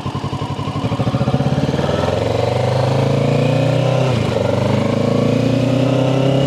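Kawasaki Ninja 650's parallel-twin engine on its stock exhaust, pulling away and accelerating with a rising pitch. About four seconds in the revs dip briefly at an upshift, then climb again.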